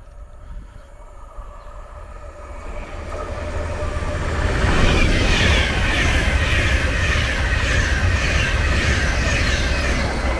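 A train passing through the station without stopping. Its noise grows from about two seconds in, then stays loud with a rapid repeating clatter.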